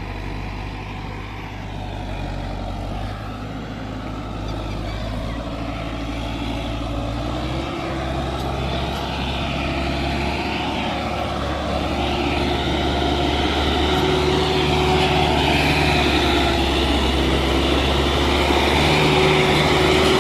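Sonalika tractor's diesel engine running under load while pulling a trolley, a steady drone that grows steadily louder.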